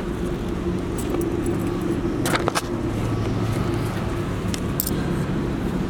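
A vehicle engine idling with a steady hum, with a few short clicks and rattles about two and a half seconds in and again near the end.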